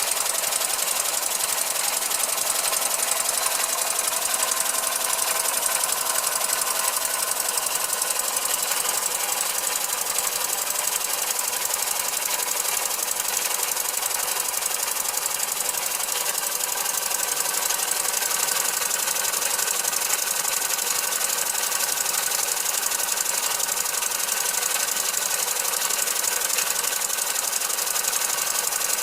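Small 1912 hand-built oscillating model engine running on compressed air, driving a toy line shaft and its belted toys, with a steady, fast mechanical clatter.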